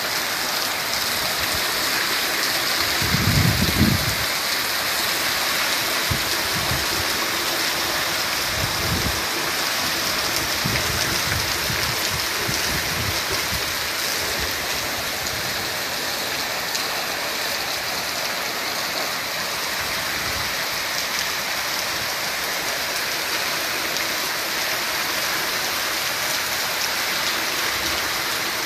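Heavy rain falling in a steady, even hiss. A few low rumbles rise under it in the first half, the loudest about three seconds in.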